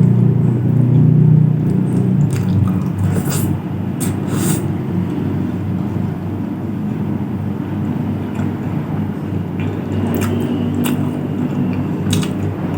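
A steady low rumble, with a few short sharp clicks of eating close to the microphone every few seconds: mouth sounds and utensils on food.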